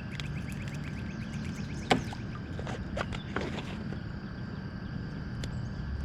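Clicks and knocks from fishing gear and a caught fish being handled in a kayak, over steady low outdoor background noise. There is one sharp click about two seconds in, followed soon after by a cluster of smaller clicks and knocks.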